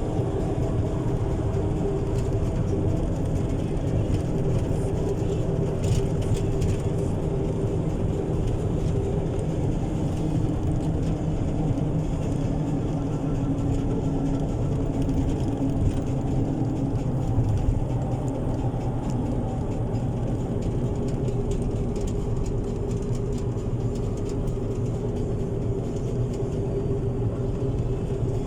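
Steady engine and road noise inside a car driving at a constant speed, a low drone with an even hum.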